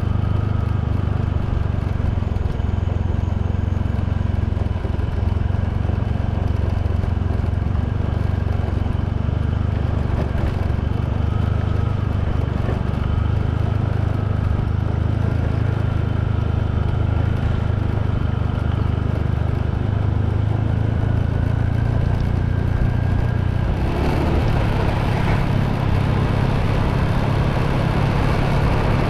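Motorbike engine running steadily under way, with a faint whine that slowly climbs in pitch. About 24 seconds in, a broader rushing noise joins it.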